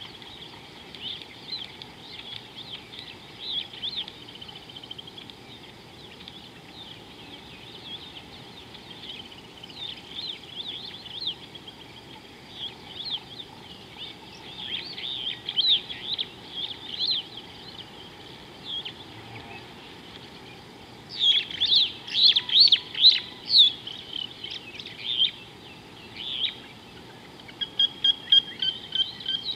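Wild birds chirping and calling in short, sharp notes over a steady background hiss, with a louder flurry of calls about two-thirds of the way through and a quick run of repeated notes near the end.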